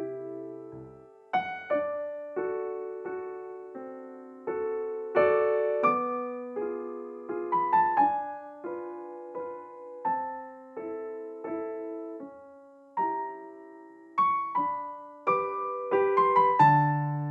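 Gentle background music played on piano: soft chords and melody notes struck one after another, each ringing and fading.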